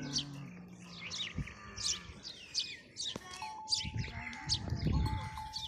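A small bird calling over and over, a short high chirp repeated about every half second. Partway through, a low rumble comes in for a second or so.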